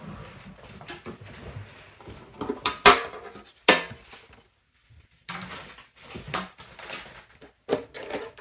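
A metal Pokémon collector's tin being handled while it is unpacked: a string of irregular metallic clanks, knocks and rattles, the loudest about three seconds in.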